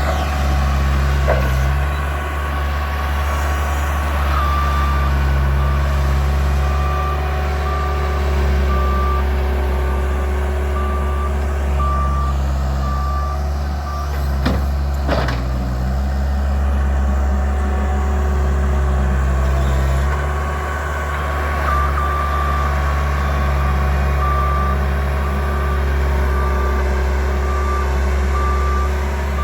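Bobcat loader's diesel engine running steadily while its reversing alarm beeps about once a second, in two spells of several seconds each.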